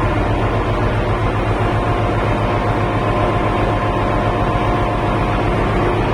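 Ship's engine room machinery running: a loud, steady drone with a fast low throb and a few faint steady whining tones over it.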